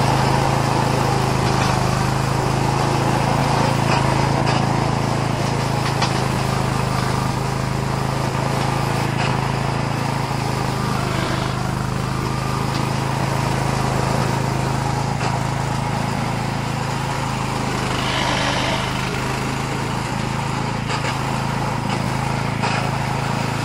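The FrankTech RCM 3X3A robotic mower's 13 hp Tosaka petrol engine running steadily while its blade cuts through tall grass and weeds. The sound grows slightly fainter as the machine drives away.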